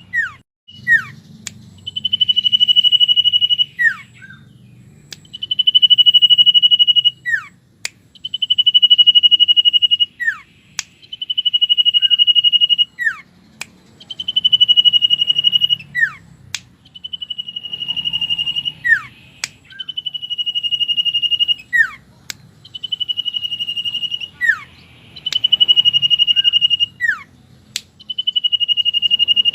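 Common iora (cipow) singing: a long, steady, high whistle held for a second or two, then short falling notes, repeated about every two to three seconds, with a few sharp clicks between phrases.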